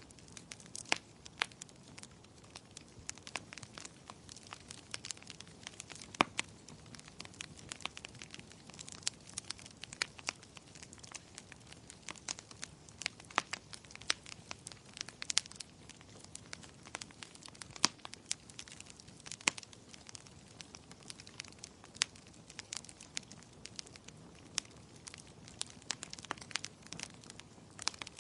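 Wood fire crackling, with frequent irregular sharp pops over a soft steady hiss.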